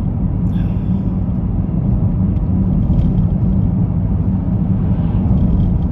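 Steady low rumble of a car being driven along a road, engine and tyre noise heard from inside the cabin.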